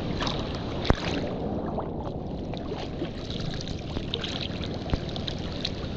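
Sea water sloshing and lapping around a surfer waiting on a board, with two sharp knocks, about one second in and near five seconds.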